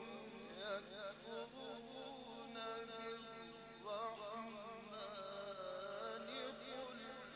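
A male voice chants Quranic recitation, holding long, ornamented melodic lines whose pitch wavers and turns, fairly faint.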